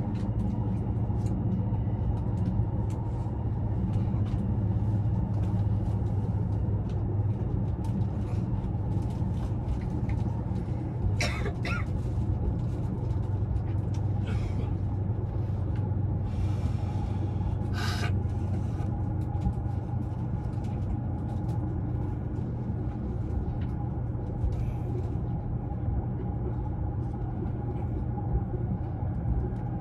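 Steady rumble and low hum inside a passenger car of an E353 series limited express electric train, with scattered light clicks and two brief higher-pitched squeals about 11 and 18 seconds in.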